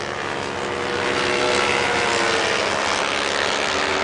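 Racing motorcycle engines at high revs, getting louder over the first second as the bikes come closer, then holding a steady, high-pitched note.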